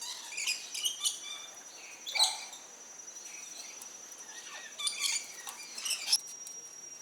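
Parakeets chirping in three bouts of short, high-pitched calls, over a faint steady high tone.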